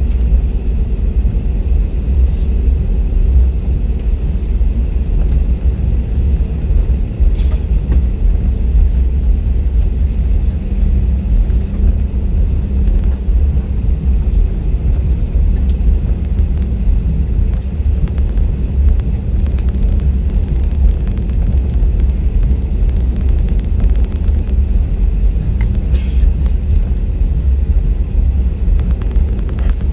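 Jet airliner cabin noise: a steady low rumble from the engines and airflow, with a faint steady hum above it and no change in pitch or loudness.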